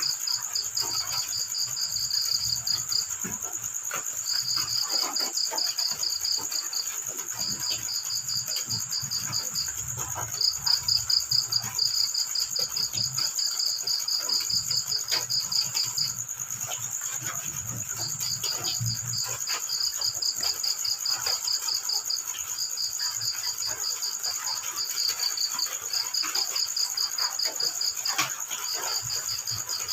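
Crickets chirping at night in rapid pulsed trills that run for one to several seconds with short pauses between, over a steady high-pitched hum.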